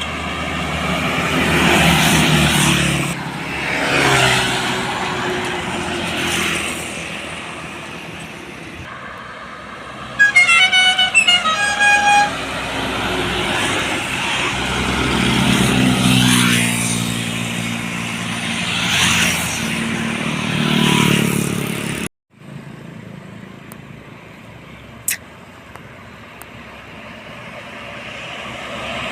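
Trucks and other road vehicles passing one after another, engine and tyre noise swelling and fading with each pass. Around ten to twelve seconds in, a horn sounds a quick series of short toots at several different pitches. About 22 seconds in the sound cuts off abruptly, then quieter passing traffic.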